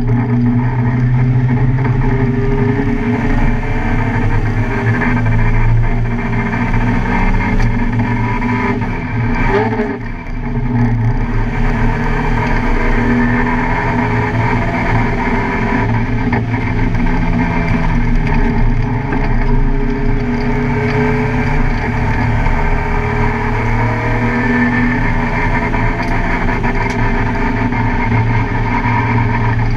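Car engine driven hard on a race track, its revs climbing and dropping through gear changes, with a brief dip and sweep in pitch about ten seconds in.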